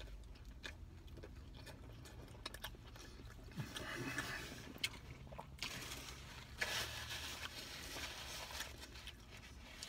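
Faint chewing of a bite of hot dog in a soft bun, the bite mostly bread, with small wet mouth clicks. A paper napkin rustles against the mouth in the later seconds.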